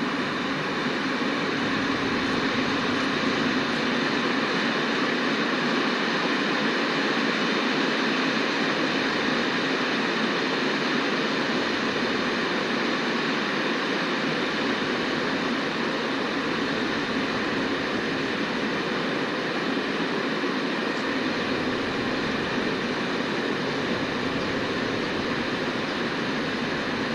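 A train running by on the line, giving a steady, unbroken noise of wheels on rails.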